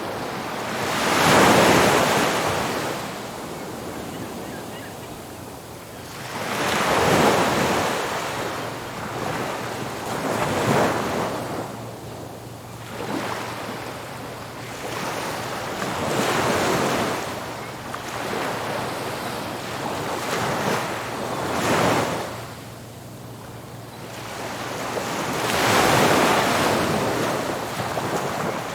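Ocean surf breaking on a beach: waves surge in and wash back about every four to six seconds, with wind noise on the microphone.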